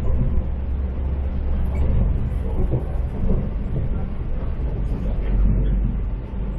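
Local diesel railcar running along the line: a steady low rumble of engine and wheels on the track, heard from inside the carriage.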